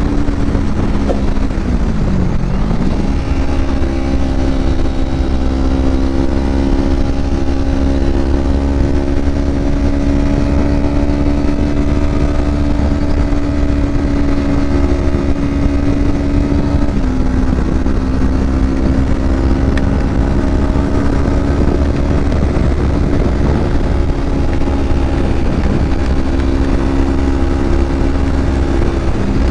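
Kawasaki Ninja 250 motorcycle engine and exhaust running under way at a steady pitch. The revs dip and climb back about two seconds in, and the pitch steps down slightly about seventeen seconds in.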